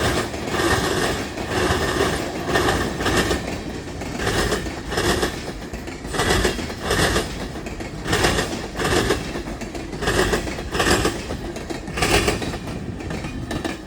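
Freight cars of a passing train rolling by, wheels clacking over rail joints in a steady rhythm: pairs of clacks about every two seconds over a continuous rolling rumble.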